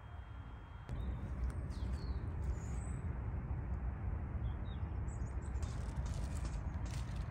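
Small birds chirping in short high calls, twice in a few seconds, over a steady low outdoor rumble that grows louder about a second in.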